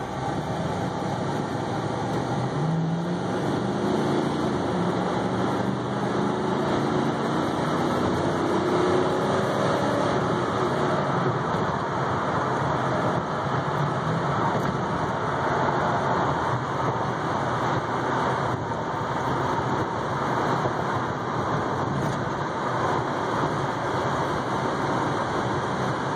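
A Mercedes-Benz 500 SEC's V8, heard from inside the cabin as the car accelerates. The engine note rises in pitch over several seconds, then settles into steady engine and road noise as the car cruises.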